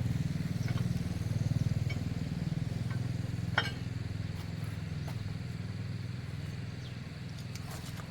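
An engine idling steadily, a little louder for the first couple of seconds, with a few light clicks on top.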